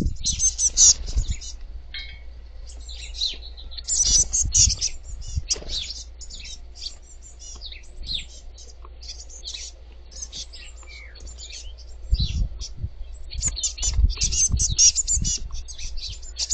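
Young blue tits giving rapid, high chirping calls in flurries, busiest near the start, about four seconds in and again near the end, with a few low bumps in between.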